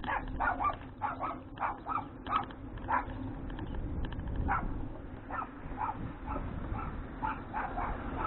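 A dog barking repeatedly in runs of short barks, with a brief pause about halfway through.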